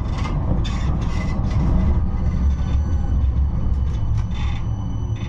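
Interior running noise of a 71-628-02 tram drawing up to a stop: a steady low rumble with several short hisses. From about two seconds in, faint steady high-pitched whines join it.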